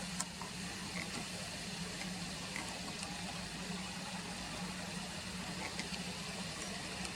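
Steady outdoor background noise: an even hiss with a constant low hum and a few faint ticks.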